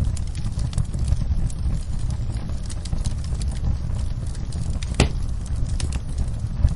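Wood fire burning in a fireplace, crackling with frequent small snaps over a steady low rumble, and one louder pop about five seconds in.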